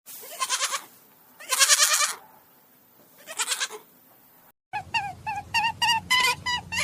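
A goat bleating three times, each a wavering call of about half a second. About two-thirds of the way in, after a sudden cut, a quick run of short pitched notes starts over a low steady hum.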